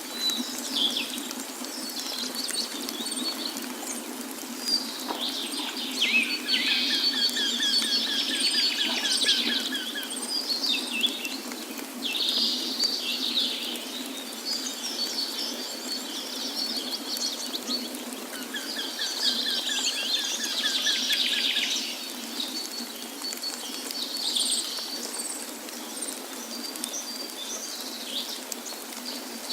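Several wild birds singing and calling over one another with high chirps and warbles. A rapid trill comes twice, about a quarter of the way in and again past the middle. Under it runs a steady low rushing background.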